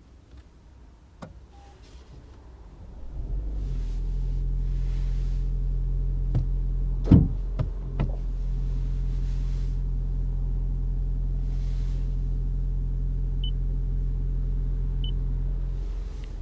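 The Toyota C-HR's 1.8-litre hybrid four-cylinder petrol engine starts about three seconds in and runs with a steady hum at a constant speed, then cuts out just before the end. A few sharp clicks sound in the middle, and two faint short beeps near the end.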